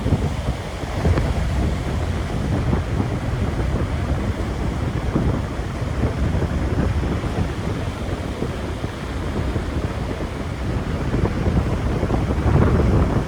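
Gusty storm wind buffeting the microphone, with ocean surf under it; the rumble swells and eases in gusts and builds again near the end.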